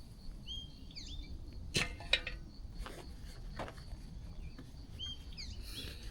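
Outdoor ambience with small birds chirping in short curved calls, a few scattered clicks and knocks, and a low steady rumble underneath.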